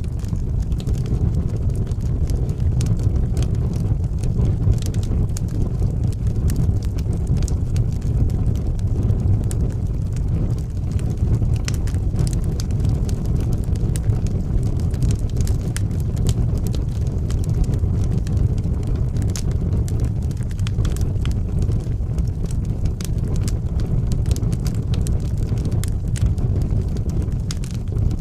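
Wood fire burning in a fireplace: a steady low rumble of the flames with scattered crackles and pops throughout.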